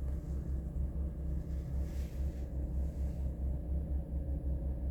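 2023 Toyota Corolla LE engine idling steadily, still warming up after a cold start.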